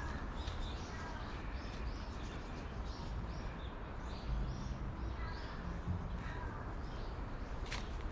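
Small birds chirping, with short high calls scattered throughout, over a steady low outdoor rumble.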